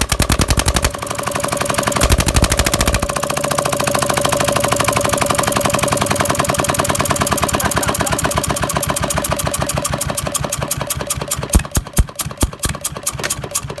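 Petter diesel engine picking up speed about a second in, then running fast and steady. Near the end it slows back to separate, uneven beats.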